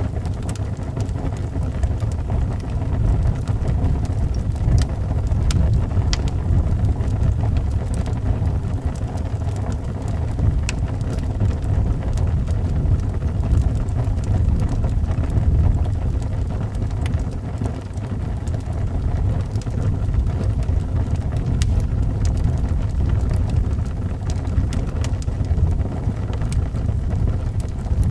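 Wind rumbling steadily and low, with scattered small pops and crackles of a wood fire burning.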